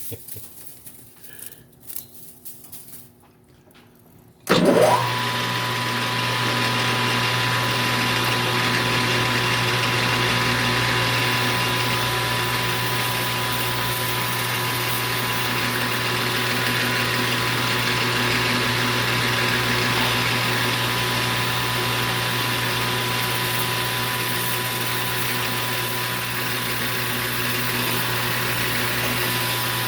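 Small metal lathe switched on about four seconds in: its motor spins up with a quick rising whine, then runs steadily with a low hum and a thin steady tone.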